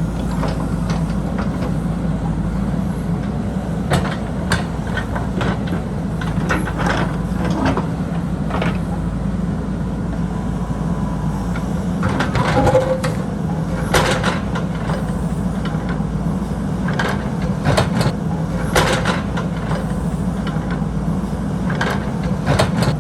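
JCB backhoe loader's diesel engine running steadily, with frequent sharp clanks and knocks from the working machine.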